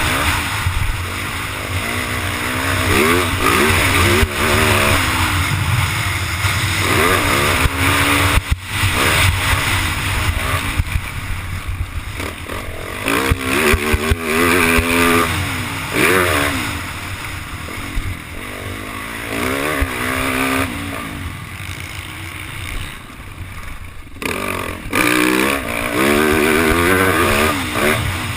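Yamaha YZ450F four-stroke single-cylinder dirt bike engine under hard riding, its pitch rising and falling over and over as the throttle is opened and closed, with wind rushing over the microphone. The engine note drops off briefly a few times, most clearly about a third of the way in and near the end.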